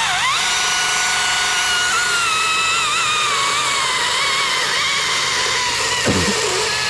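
Chainsaw revving up suddenly, then held at high speed in a cut, its pitch sagging slowly as it works under load.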